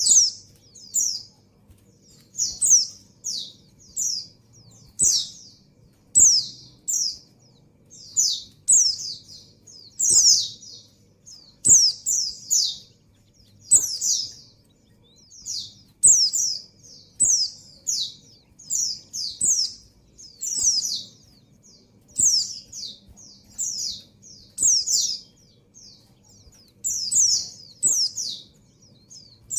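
Female white-eye (pleci) in breeding condition calling for a male: short, high chirps that fall in pitch, singly or two or three together, repeating about once a second.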